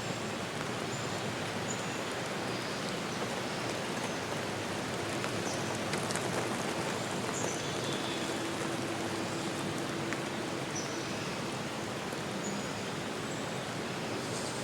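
Steady rushing water noise, with faint short high bird chirps scattered through it.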